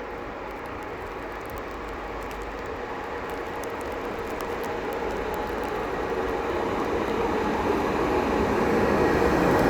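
A train approaching, its rumble and a steady hum growing steadily louder.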